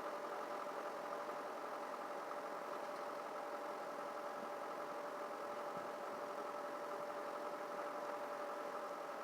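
An engine running steadily at idle, a constant hum with a few fixed tones that does not change.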